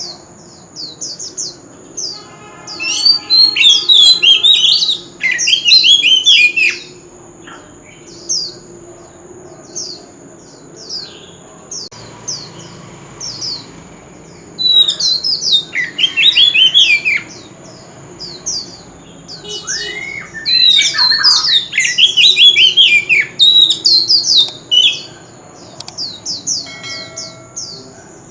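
Oriental magpie-robin singing: runs of short, high, down-slurred whistled notes, broken by dense bursts of rich, varied warbling about three seconds in, around fifteen seconds and again from about twenty to twenty-four seconds.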